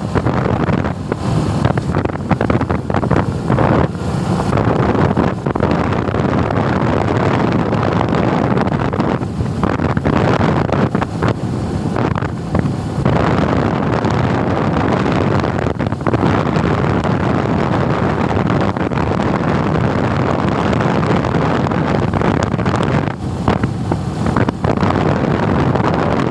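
Wind rushing over the microphone of a moving Suzuki Gixxer motorcycle, with the engine running steadily underneath. There are a few brief dips in the wind.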